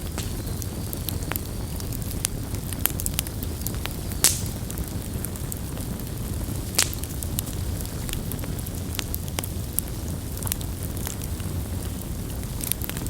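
Campfire burning: a steady low rumble of flames with frequent sharp crackles and pops, the loudest pop about four seconds in and another near seven seconds.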